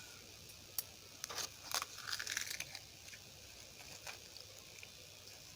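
Food being handled by hand at the plate: a few light clicks and a short, faint crackling rustle about two seconds in.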